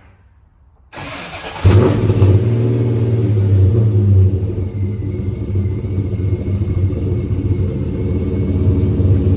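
1970 Chevrolet Chevelle SS's big-block V8 cold-starting: a brief crank about a second in, then it fires with a loud burst and settles into a steady idle.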